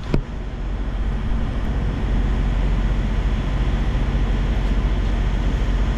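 Steady low vehicle rumble, with a short sharp knock right at the start.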